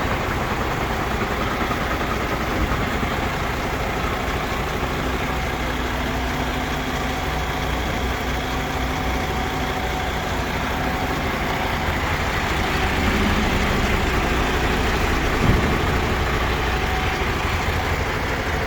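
MAN TGS 41.440 tipper truck's diesel engine idling steadily, swelling slightly in level a little past two-thirds through, with one brief knock near the end.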